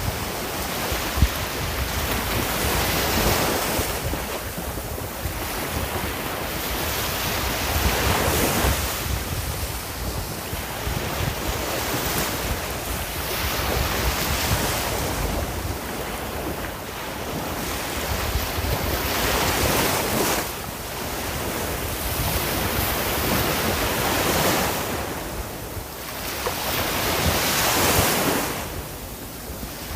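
Sea waves breaking and washing on the shore, the surf swelling and fading every few seconds, over a low rumble of wind on the microphone.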